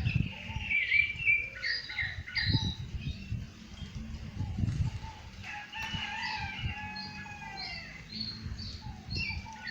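Rufous-bellied thrush singing: short, repeated whistled phrases, with a longer, drawn-out call from another bird about six seconds in and low thumps underneath.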